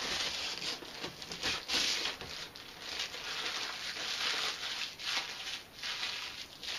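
Plastic wrap crinkling and rustling in irregular bursts as it is pulled and peeled off a new label printer.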